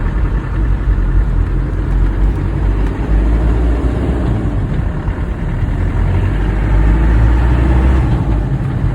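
1997 Land Rover Defender pickup's engine pulling away from a stop and accelerating through the low gears. The engine note dips briefly about three seconds in and again near the end.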